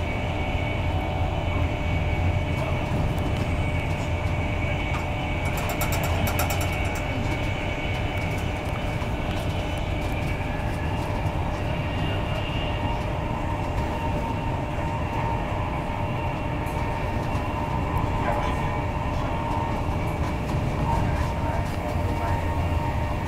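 Steady running noise inside a Mark 4 coach of an InterCity 225 train at speed: a continuous low rumble of the wheels on the rails with a few faint steady tones above it. There is a short run of rapid clicks about six seconds in.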